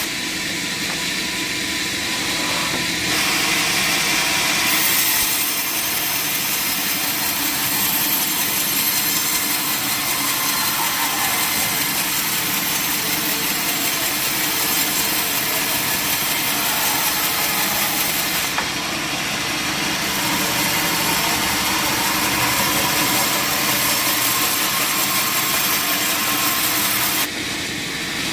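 A sawmill saw running steadily through a log, with continuous loud sawing noise whose tone shifts a few times during the cut.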